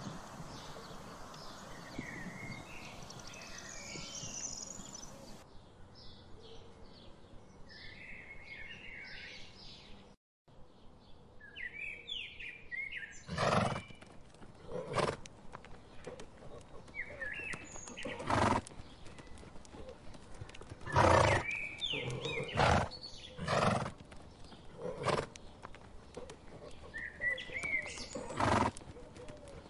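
Songbirds chirping over a steady outdoor background. After a cut about ten seconds in, horses make a series of loud, short, noisy bursts every one to three seconds, with birds still chirping between them.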